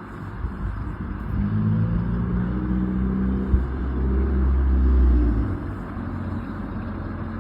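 A motor vehicle's engine running with road noise. It swells in the middle, then eases off.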